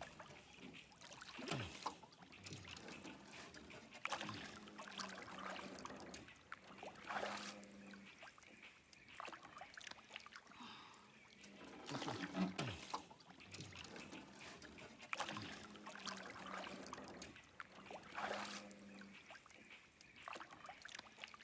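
Water trickling and splashing against a small boat, in irregular splashes every second or few.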